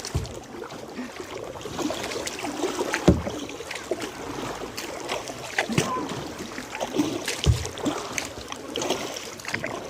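Kayak paddles dipping and splashing through the water, with a few dull knocks spaced several seconds apart.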